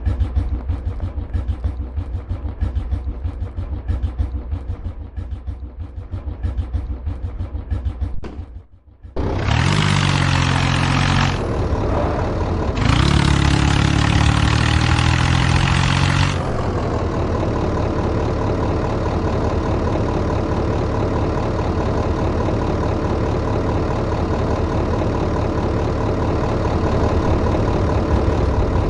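Tractor engine running with a pulsing idle, revved up hard twice after a brief break, then settling into a steady idle.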